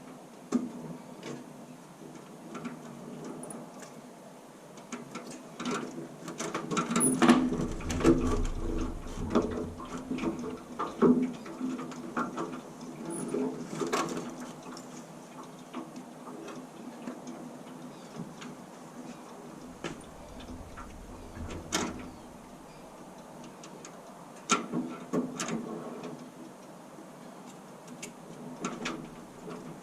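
Irregular clicks and knocks over a steady low hum, with dull thumps in two clusters, about a third of the way in and again about two thirds in.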